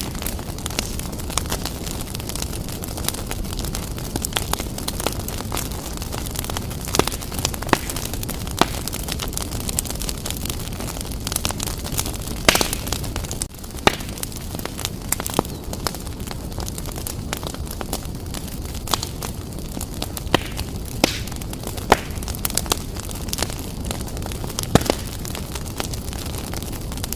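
Wood fire burning vigorously in a fireplace: a steady low rumble of flames with frequent, irregular crackles and sharp pops.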